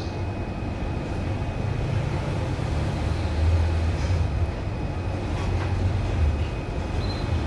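Steady low rumbling noise with a faint, steady high tone, broken by a few faint, brief high chirps at the start, about four seconds in and near the end.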